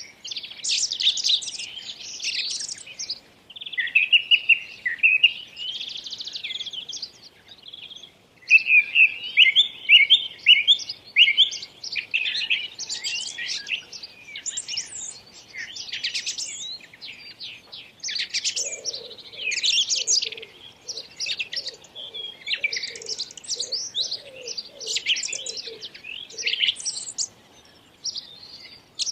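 Small birds chirping and singing in quick, high runs of notes that break off briefly a few times. For several seconds past the middle, a lower repeated note sounds beneath the chirping.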